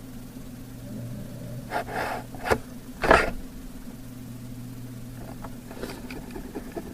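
A steady low hum with three short breathy noises near the microphone about two to three seconds in, the last one the loudest.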